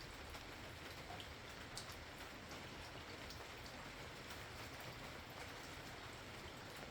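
Steady night rain: an even hiss, with scattered individual drops ticking sharply on a nearby surface.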